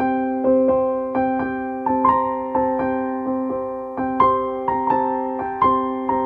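Slow, gentle piano music: single notes struck every half second or so over held chords, each note fading away.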